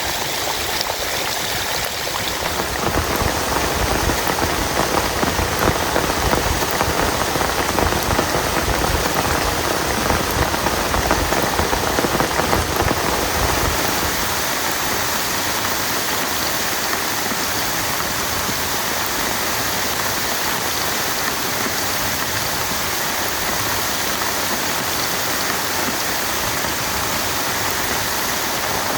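Heavy rain falling in a steady hiss, a little louder and fuller for about ten seconds from around three seconds in, then even.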